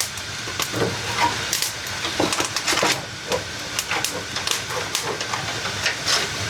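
Dough frying in hot oil, a steady sizzle with frequent irregular crackles and pops.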